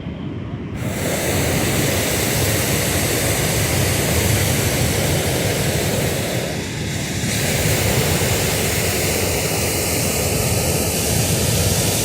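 Steady rushing noise of wind over the microphone of a camera on a moving bicycle, growing louder about a second in and dipping briefly around the middle.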